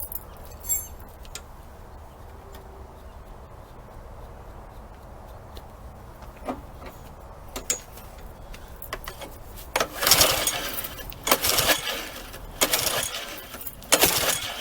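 String trimmer's recoil starter pulled several times in quick succession near the end, each pull a short whirring rush, with handling clicks before; the engine does not catch, which the repairer puts down to the carburetor not getting fuel prime.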